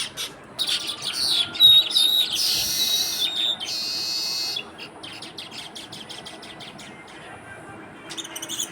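Small birds chirping busily and loudly for about four seconds, rapid high notes mixed with harsh, buzzy calls. Then it drops to faint scattered clicks, with a short flurry of chirps near the end.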